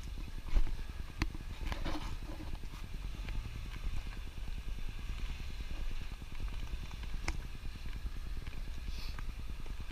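Jeep engine running at low revs in a steady, pulsing rumble as the vehicle crawls up a rock ledge, with a couple of sharp knocks from the tyres or body against rock.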